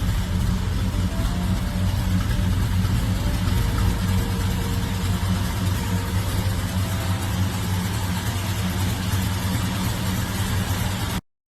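Dodge's 440 big-block V8, swapped in for the original 318, idling steadily with a deep low rumble. The sound cuts off abruptly near the end.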